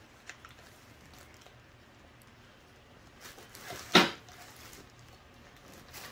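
Handling noises from the impact drill and its accessories: a few light clicks near the start, then one sharp, loud knock about four seconds in.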